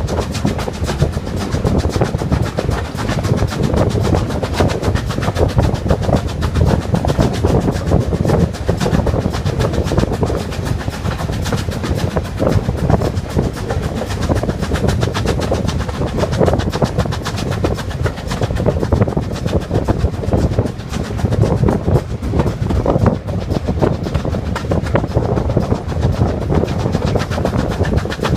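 Steam train running along the track, its wheels clattering steadily on the rails.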